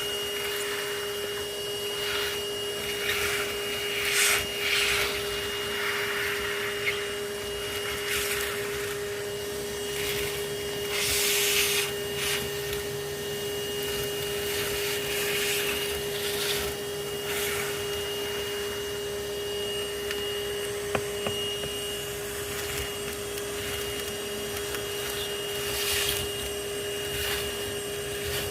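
Bee vacuum running steadily with a constant whine, broken by repeated surges of rushing air as bees are sucked in at the hose nozzle. A single sharp click comes about two-thirds of the way through.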